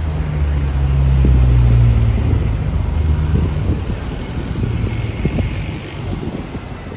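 A motor vehicle's engine passing close by on a street, a low hum that is loudest about a second or two in and then fades away, over steady traffic hiss.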